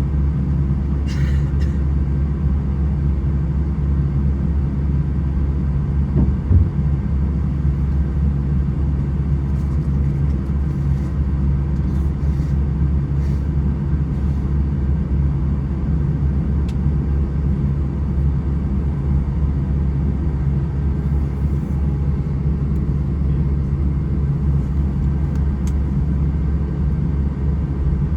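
Steady low rumble and hum inside an Airbus A320 cabin, with the engines running evenly rather than spooling up. There is a brief thump about six seconds in.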